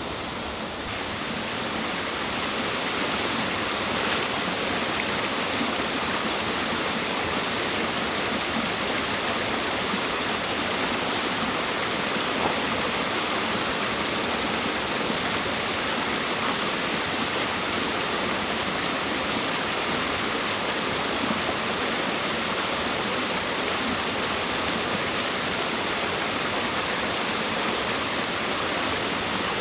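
Steady rush of flowing water from a stream, a little louder after the first second or so.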